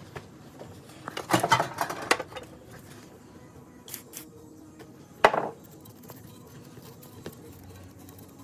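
Metal tools and parts clinking and clattering during the repair work: a burst of clatter about a second in, a few light clicks near four seconds, and one sharp metallic knock a little past five seconds.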